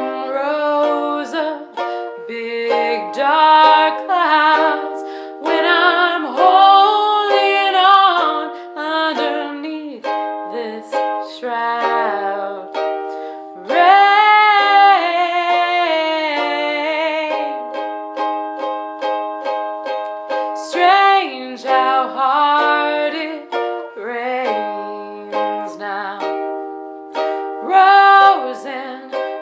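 Ukulele accompanying a singer holding a slow melody with vibrato. A little past the middle the voice stops for a few seconds and the ukulele picks notes alone before the singing returns.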